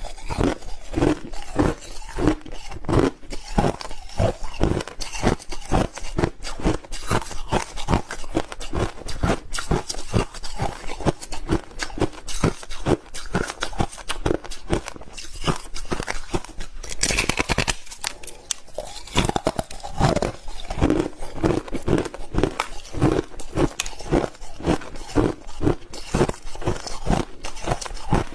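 Crushed ice being chewed close to the microphone: fast, irregular crunching bites one after another, with a brief harsher burst about two-thirds of the way through.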